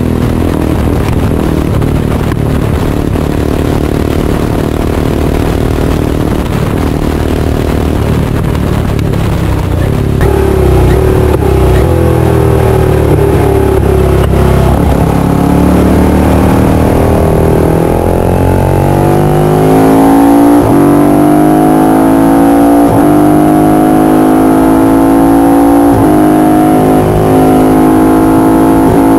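Ducati 450 air-cooled single-cylinder racing engine, steady at first, then from about ten seconds in climbing in pitch as the bike accelerates. A few upshifts follow, each dropping the pitch before it climbs again.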